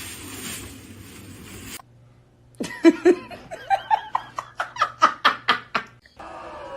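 A person laughing hard in a fast run of 'ha' bursts, about four or five a second, climbing in pitch. This comes after a second or two of steady hiss.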